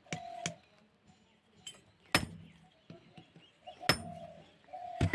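A handful of sharp clinks and taps, a second or two apart, with short steady tones between some of them.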